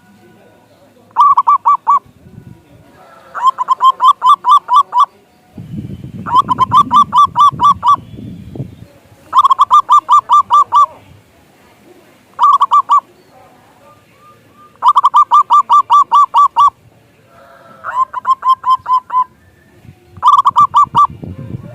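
Zebra dove (perkutut) singing: about eight phrases of rapid, evenly pulsed cooing notes, each a second or so long, with short pauses between them. A low rumble sits under the middle phrases.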